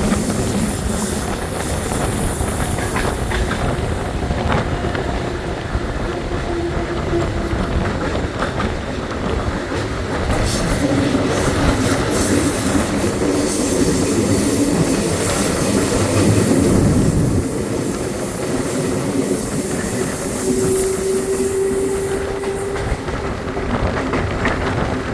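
Belo Horizonte Metro Série 900 electric train running along the line: a steady rumble of wheels on rail with clickety-clack over the rail joints. A steady whining tone comes in about twenty seconds in.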